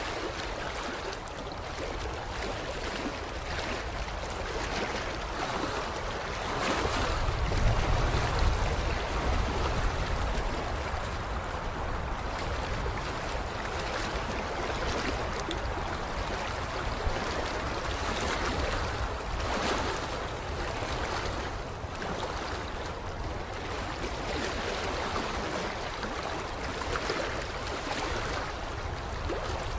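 Water lapping gently against a creek shoreline, in soft swells every couple of seconds. Low wind rumble on the microphone comes up about a quarter of the way in.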